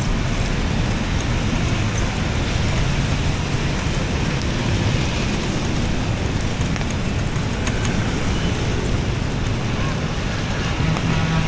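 Steady road traffic noise outdoors, with light rain.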